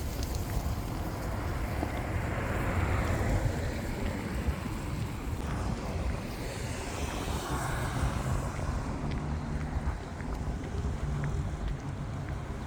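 Wind buffeting the microphone, a steady low rumble with rushing noise that swells twice.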